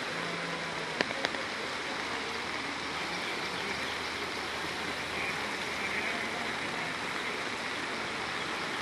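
Floodwater rushing steadily, a continuous even rush of running water, with two sharp clicks about a second in.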